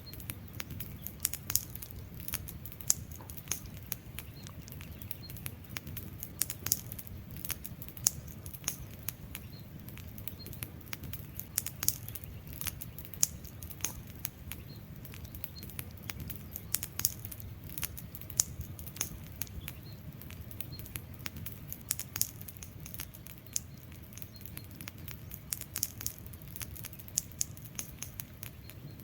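Wood fire burning, logs crackling and popping in frequent sharp, irregular snaps over a low, steady rumble of flames.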